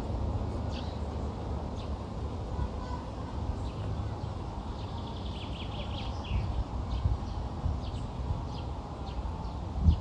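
Small birds chirping in short scattered calls, with a quick trill about halfway through, over a steady low rumble.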